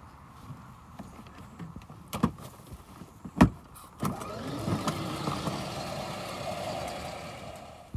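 Two sharp knocks, the second much louder, then a small off-road engine running and revving for a few seconds before fading away.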